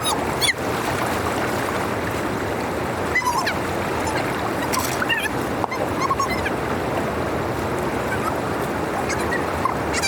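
Steady rush of floodwater pouring through a dam drainage channel. Short high squeaks or calls and a few sharp knocks break in now and then.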